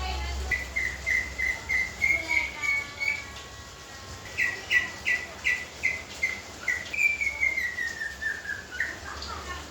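Leafbird singing: a long run of short, clear whistled notes repeated at one pitch, about three a second, ending in a stepping descending run of notes.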